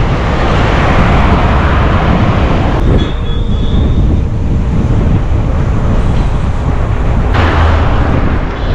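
Loud wind rumble buffeting the microphone of a camera carried on a moving bicycle, with road noise underneath.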